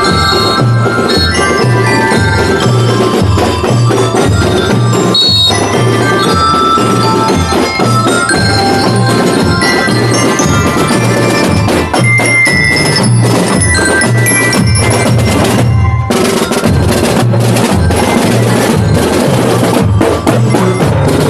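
Marching band playing: glockenspiel-type bells carrying the melody over a steady drumbeat. About sixteen seconds in, the bells drop out while the drums keep going.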